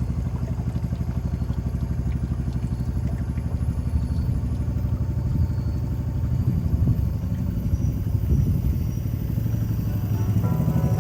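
Engine running steadily: a low, fast-pulsing drone that holds at the same level throughout.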